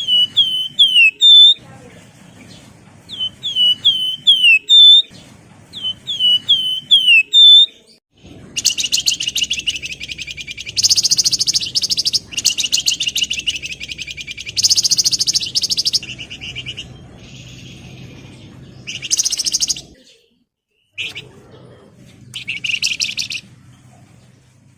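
Wergan Jawa (flamboyan) songbird singing: three short phrases of quick, sharp whistled notes, then a long, fast, buzzy chattering song with shorter bursts of the same near the end.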